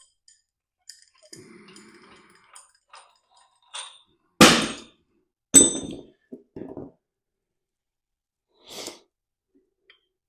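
Metal tools working on an engine: light clicks and knocks, then two loud metallic clanks about a second apart, each ringing briefly, followed by a few lighter knocks.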